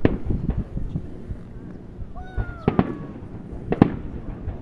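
Fireworks going off in a series of sharp bangs with smaller pops and crackles between them. A close pair of bangs comes near the middle, with another a second later, and a brief falling tone is heard just before the pair.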